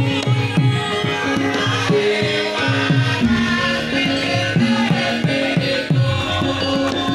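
Javanese gamelan music accompanying a masked dance: kendang drum strokes whose pitch bends downward, over a steady rhythm of struck metallophone notes.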